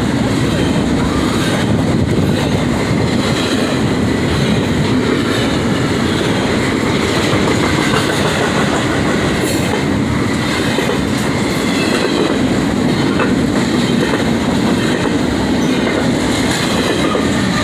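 Train rolling past close by: a steady, loud rumble of steel wheels on rail with the clickety-clack of rail joints and a faint wheel squeal at times.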